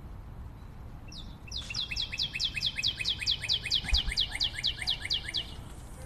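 A songbird singing a fast trill of short downslurred notes, about six a second, starting about a second and a half in and stopping shortly before the end, over a steady low rumble.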